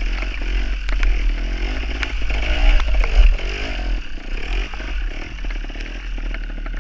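Gas Gas trials motorcycle's two-stroke engine revving up and down as it is ridden, with the loudest revs about three seconds in. Short knocks and rattles are heard over it.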